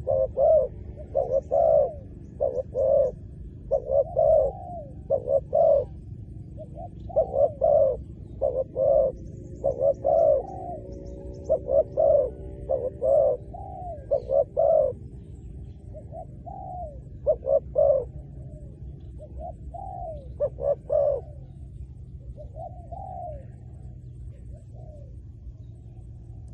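Spotted dove cooing: short low coos in quick runs, repeated over and over, growing sparser near the end.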